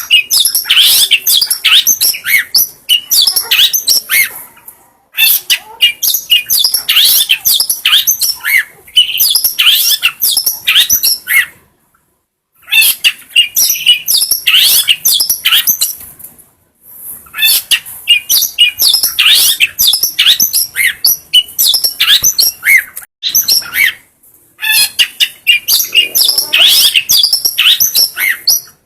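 Long-tailed shrike (cendet) singing a fast, varied, high-pitched chattering song in phrases of a few seconds, each cut off abruptly by a short silent gap.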